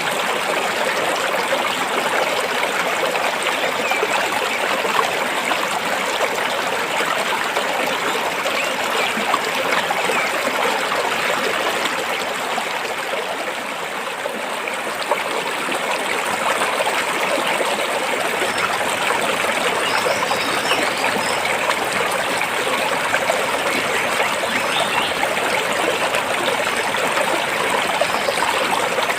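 Stream water flowing and splashing over rocks, a steady babbling rush with a slight dip in level about halfway through.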